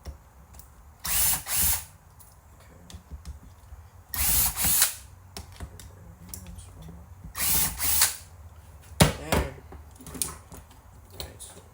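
Power screwdriver running in three short bursts, each in two quick pulses, backing out screws that hold a VCR's head drum assembly, followed by a couple of sharp clicks.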